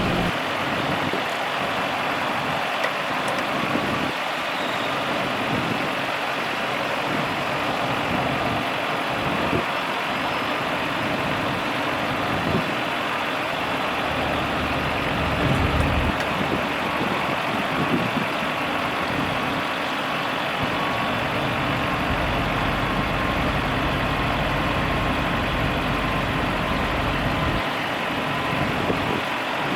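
A Ford F650 medium-duty dump truck's engine running steadily at idle.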